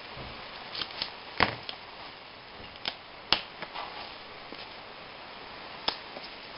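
A few sharp clicks and knocks of hand tools on a petrol car's cylinder head, the loudest about a second and a half in and just past three seconds in, over a steady low hiss.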